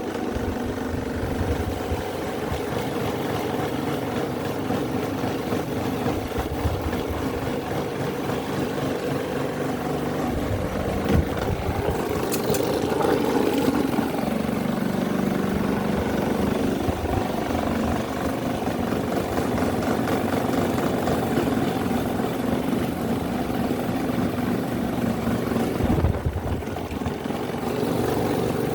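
Several electric fans and small homemade fan motors running together: a steady whirring hum, with a few brief clicks about a third of the way in and again near the end.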